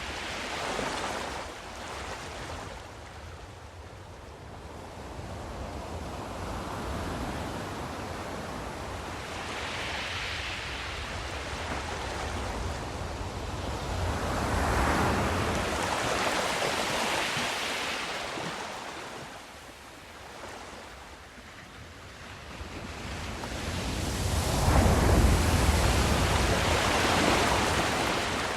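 Sea waves washing in slow swells, each surge building and fading over several seconds, the biggest one near the end.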